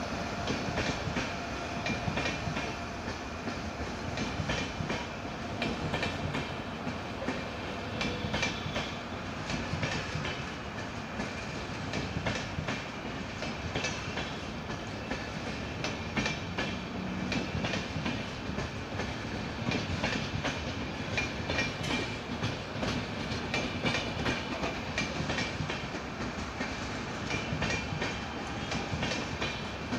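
Coaches of the 16525 KSR Bangalore Express, an Indian Railways passenger train, rolling past. Their wheels clack over the rail joints in a steady stream of clicks over a continuous rumble.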